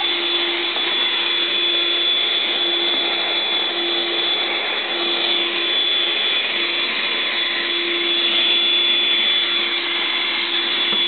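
Vacuum cleaner running steadily on a rug: a constant motor drone with a thin high whine above it. The clog that had stopped it sucking has been cleared.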